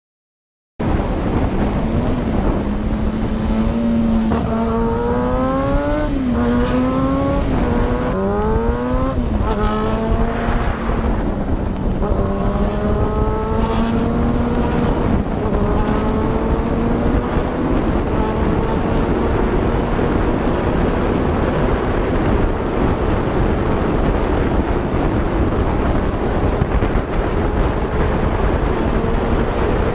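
A car engine accelerating through the gears: after a brief gap of silence its pitch climbs and drops back three or four times in quick succession, then climbs slowly and holds steady, over a constant rush of road and wind noise.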